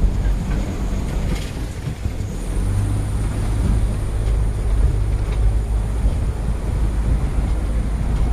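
Steady low rumble of a vehicle on the move. A thin, high steady whine joins in about two and a half seconds in.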